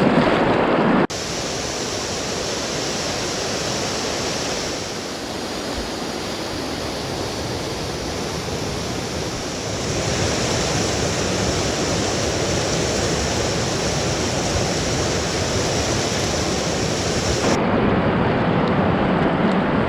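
River rapids rushing steadily, with an abrupt change in the sound of the rush about a second in and again near the end.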